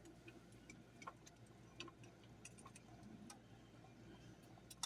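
Near silence, with a few faint, irregularly spaced light clicks over a low room hum.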